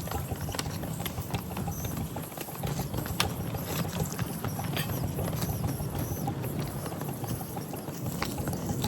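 Miniature ride-on train running on 7.5-inch gauge track: a steady low rumble with many irregular sharp clicks of wheels over the rails.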